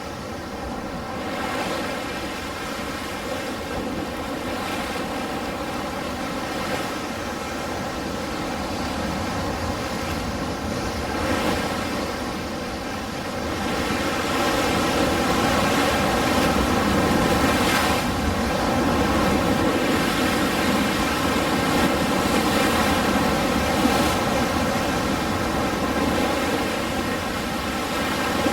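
Ocean surf washing ashore as a continuous rushing noise, growing louder about halfway through as a bigger wave comes in.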